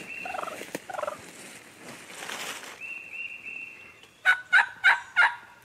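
Wild turkeys calling: fainter calls at first, then four loud calls in quick succession about four seconds in.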